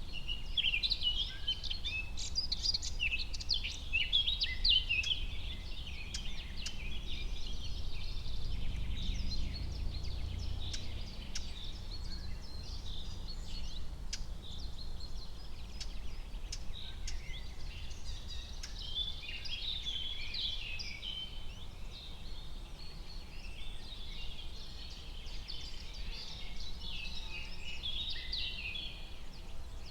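Forest ambience: several songbirds chirping and trilling over one another, busiest in the first few seconds and again through the second half, over a steady low background rumble.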